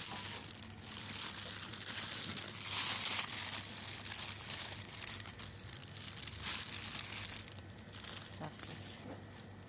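Irregular rustling and crinkling, swelling and fading, that eases off near the end.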